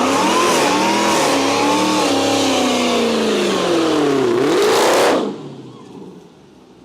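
Car engine revving and accelerating, its pitch sagging and climbing, then dropping and rising steeply before it cuts off suddenly about five seconds in.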